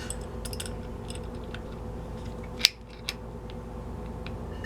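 Small clicks and taps of tools and metal parts being handled, with one sharp click a bit past halfway, over a steady low hum.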